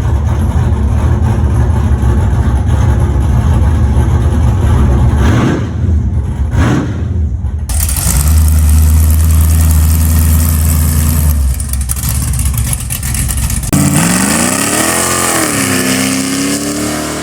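Car engine running in several clips that cut in abruptly, first a steady low run, then the engine revved with its pitch rising and falling near the end.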